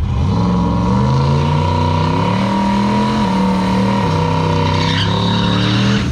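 A car engine running at a fairly steady speed, its note shifting slightly a few times, with a steady high whine over it.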